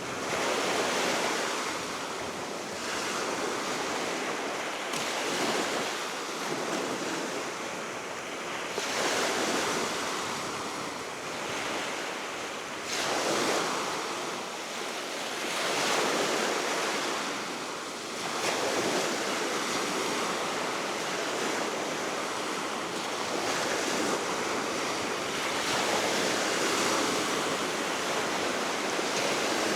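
Baltic Sea waves breaking and washing ashore, the surf swelling and falling away every few seconds, under a steady wind.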